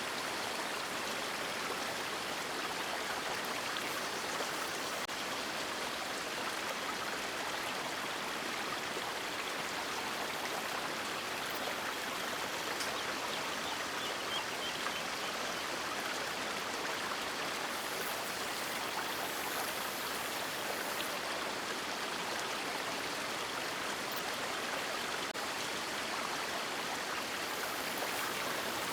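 River water rushing and splashing over rocks, a steady even flow with no change.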